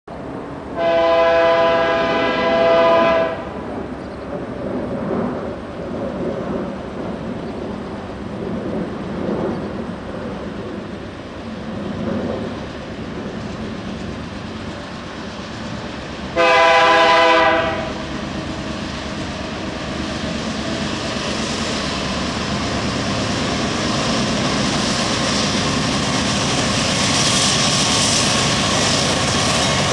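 Diesel freight locomotive air horn sounding a chord of several tones: a long blast in two parts in the first seconds, then a shorter blast about 17 seconds in. Between and after the blasts the rumble of the approaching locomotives and train grows steadily louder.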